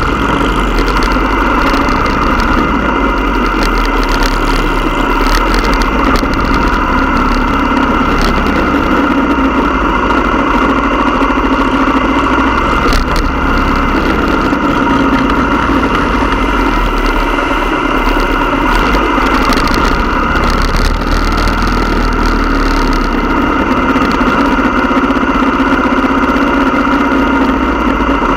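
Motorcycle engine running steadily at an even pitch throughout, with no revving up or down.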